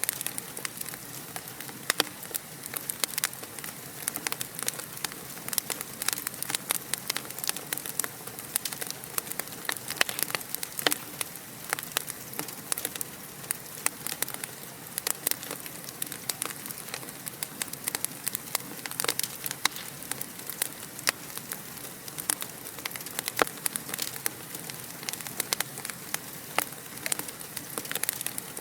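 Wood fire crackling in a fireplace: a steady hiss with many irregular sharp pops and snaps.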